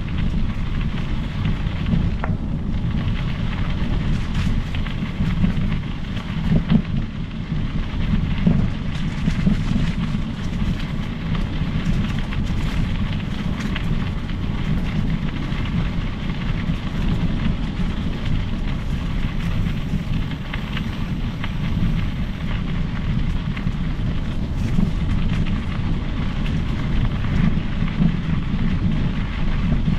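Steady wind buffeting on the microphone and tyre rumble from a mountain bike rolling along a trail, with scattered small clicks and rattles from the ground and bike.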